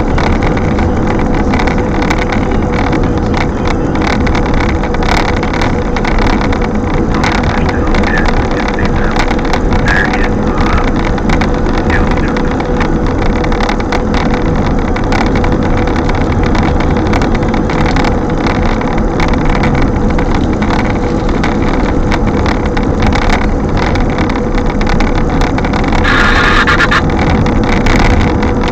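Strong gusting wind rushing loudly and steadily, with a constant hum underneath and a brief higher tone near the end.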